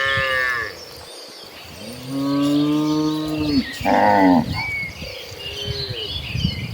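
Cattle mooing: a call trails off at the start, then a long moo about two seconds in is followed at once by a shorter, higher one, and a faint moo comes near the end.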